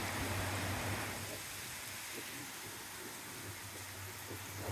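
Heavy rain falling as a steady, dense hiss, easing a little about a second in.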